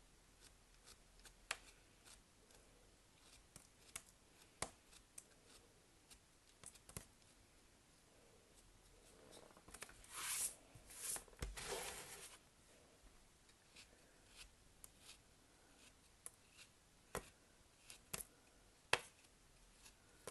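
Hands handling and unwrapping soap packaging: scattered light clicks and taps, with a longer, louder rustle of packaging about ten to twelve seconds in.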